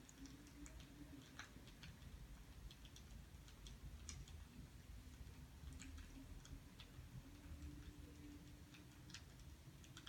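Faint crackling of burning firewood: scattered small irregular pops over a low steady hum.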